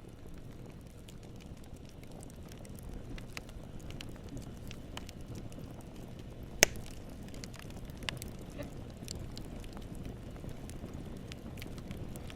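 Campfire burning, a steady low rumble of flames with scattered sharp crackles and pops from the wood, one much louder pop about six and a half seconds in.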